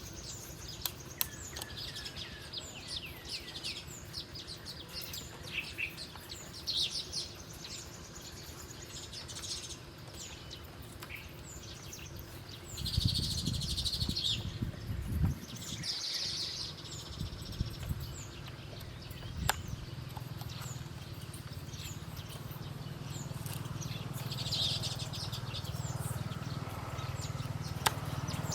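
Small birds chirping and calling again and again in short high notes and brief trills. A low rumble comes in about halfway through for a couple of seconds.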